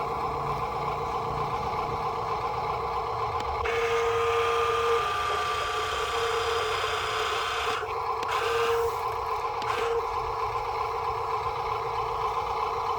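Radio-controlled model truck's electric motors and gears whining steadily, louder and harsher for a few seconds in the middle, with short repeated electronic tones.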